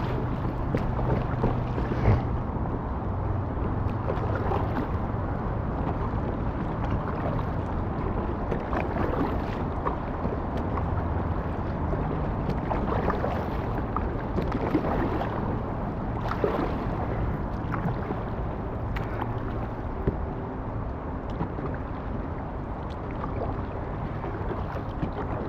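Steady rush and splash of river water around an inflatable kayak, with wind buffeting the microphone and a few sharp knocks.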